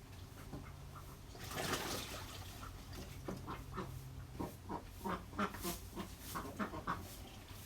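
Ducks quacking in a quick run of short calls, several a second, from about halfway in. Before them comes a brief scratchy rustle about two seconds in.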